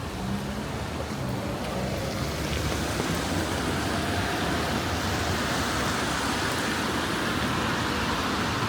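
Rainy city street: steady rain with the rush of traffic, growing louder about two and a half seconds in.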